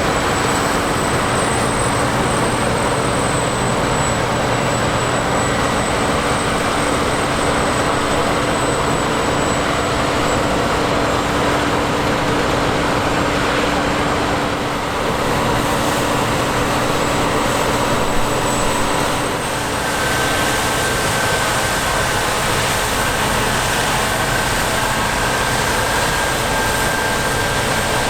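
Heavy harvest machinery running steadily: a dense engine and threshing drone with a thin high whine on top. About two-thirds of the way through, the whine gives way to a lower steady tone.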